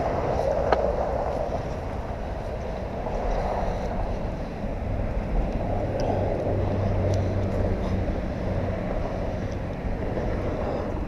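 Steady vehicle noise, with a low hum that swells for a couple of seconds past the middle.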